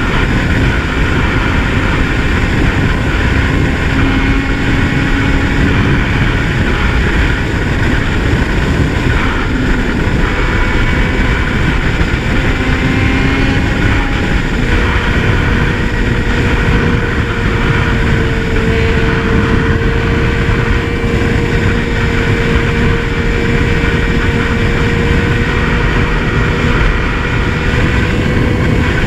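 Kawasaki Z1000 inline-four motorcycle engine running at a steady cruise under heavy wind rush over the microphone. The engine note holds fairly even, drifting only slightly in pitch.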